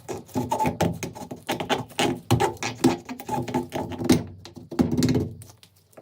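Rapid, irregular series of clicks and knocks from metal rifle parts being handled, some with a short metallic ring, dying away near the end.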